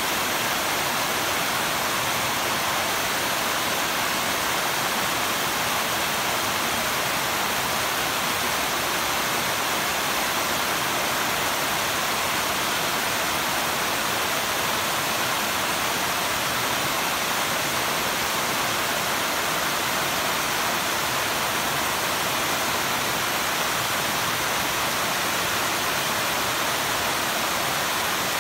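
Mountain valley stream: water rushing steadily over rocks, an even hiss without breaks.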